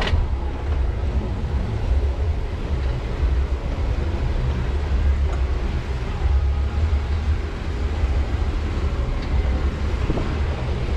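Jeep Wrangler Rubicon driving on a rough off-road trail, heard as a steady low rumble from the vehicle.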